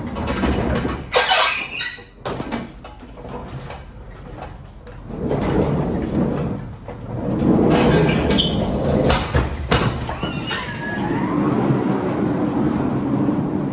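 Metal equipment being moved: stretches of scraping and rolling noise with sharp knocks, and squeaks that bend up and down in pitch near the end.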